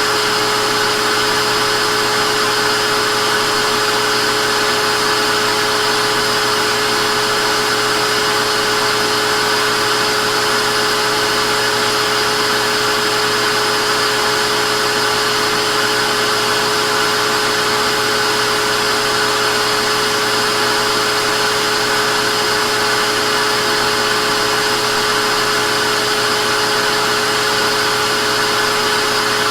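Vacuum cleaner motor running at a constant speed: a loud, even whooshing hiss with a steady whine, unchanging throughout.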